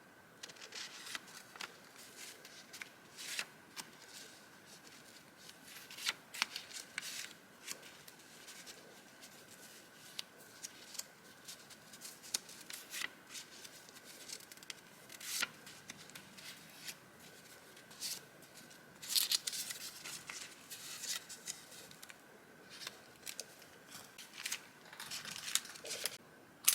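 Paper rustling and crinkling as vintage journaling papers and stickers are handled, in irregular crisp strokes with a few louder bursts, the loudest a little before the two-thirds mark.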